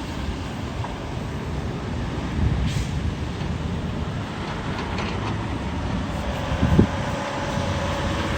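Road traffic with heavy trucks going by, a steady low rumble of engines and tyres. A short hiss comes about three seconds in, and a low thump comes near seven seconds as a steady engine tone emerges toward the end.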